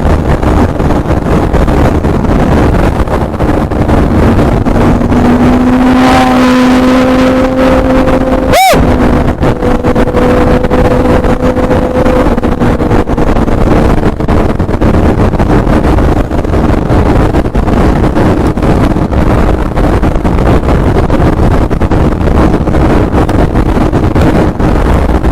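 Sport motorcycle engine and exhaust running loud and steady under a heavy rushing noise. Its note rises slightly for a few seconds near the middle, broken by a brief sharp dropout.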